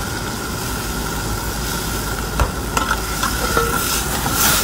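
Seafood sizzling in a hot wok as sauce is poured in, then a metal ladle stirring and clinking against the wok from about halfway, with a short louder hiss near the end.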